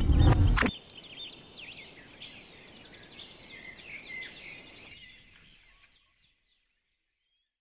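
Music ends abruptly just under a second in, leaving songbirds chirping and whistling faintly, the birdsong fading out about six seconds in.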